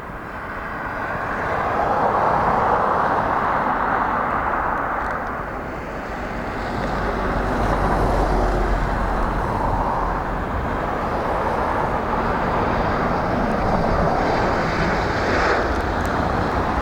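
Boeing 737-800's CFM56 jet engines on final approach and landing, a steady jet noise that swells about two seconds in, eases briefly and swells again. Heavy gusts of wind rumble on the microphone, strongest midway.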